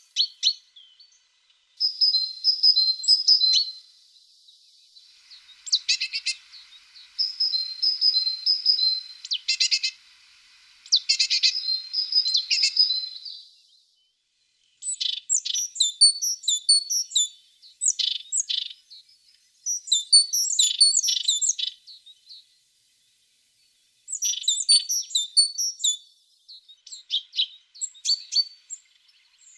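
A tit singing: a string of short phrases of high, quick repeated notes and trills, with brief pauses between them.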